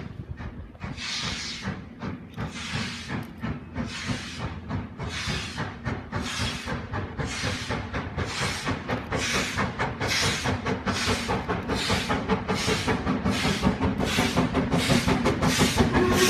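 Steam locomotive Duchess of Sutherland, an LMS Princess Coronation Class 4-6-2, working past with a steady chuff of exhaust beats over a low rumble. The beats come closer together and get steadily louder as it approaches.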